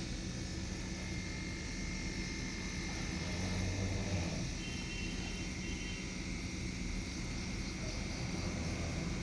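Steady low motor hum, a running machine such as the fridge's compressor or a service pump, with a faint short high beep about five seconds in.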